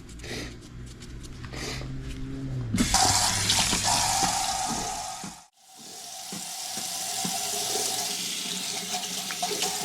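Water running from a kitchen faucet, starting about three seconds in, cut off abruptly about halfway and turned on again.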